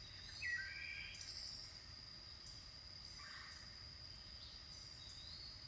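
Faint natural ambience: a steady high-pitched insect trill with several short bird chirps over it, clustered in the first second and a half and scattered after.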